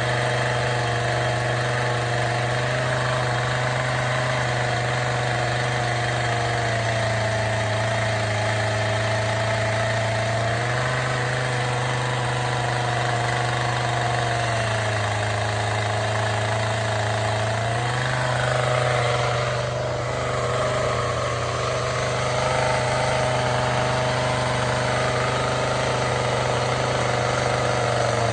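Chainsaw running steadily, its engine note dropping in pitch twice for a few seconds as the chain bites into the wood, then rising again.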